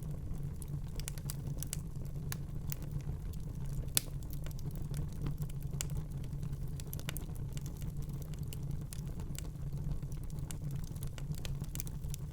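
Fire in a fireplace crackling: scattered sharp pops and snaps over a steady low rumble, with one louder pop about four seconds in.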